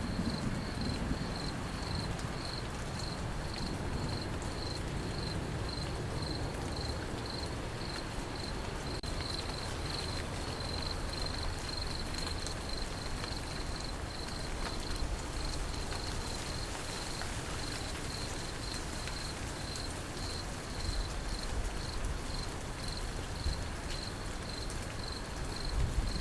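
Crickets chirping in a steady, even rhythm over a constant hiss of rain, with the tail of a low thunder rumble dying away in the first second.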